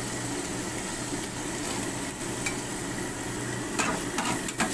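Sliced shallots and garlic sizzling in hot oil in a frying pan. From about four seconds in, a spatula scrapes and clicks against the pan as they are stirred.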